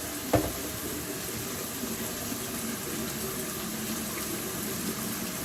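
Water pouring steadily as boiled noodles are drained, with a single knock about a third of a second in.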